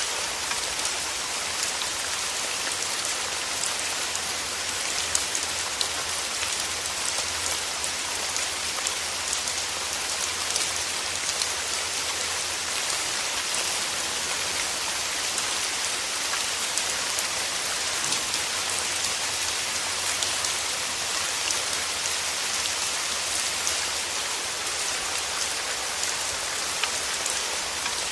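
Steady, dense rainfall with many fine drops pattering on a surface, and a faint low rumble underneath that swells and fades.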